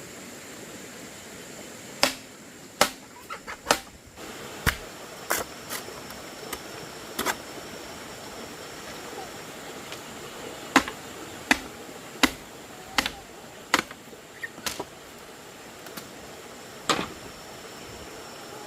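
Sharp, irregular knocks of a tool striking bamboo, roughly one or two a second with short pauses, over a steady hiss with a thin high tone.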